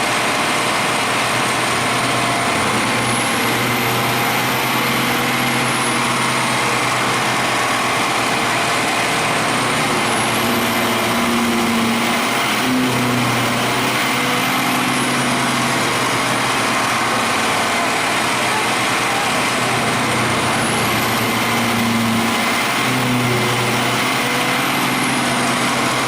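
Large engine-driven wood chipper running steadily, with a high whine that rises, holds and falls away three times.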